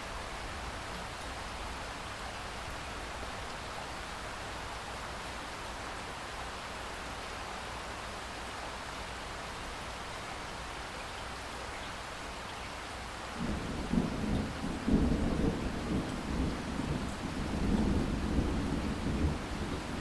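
Steady rain hissing, with a long roll of thunder rumbling in over the rain about two-thirds of the way in and carrying on to the end.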